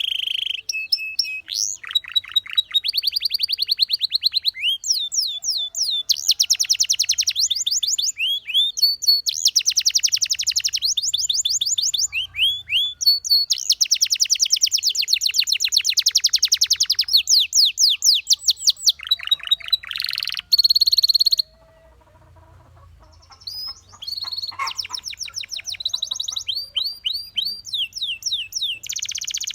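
Domestic canary singing: long, rapid trills of quickly repeated sweeping notes alternating with single whistled notes. There is a short pause about two-thirds of the way through, then the song resumes.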